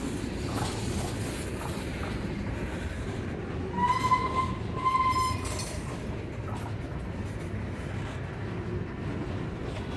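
Freight train rolling past with a steady low rumble. About four seconds in come two short high-pitched tones, about a second apart.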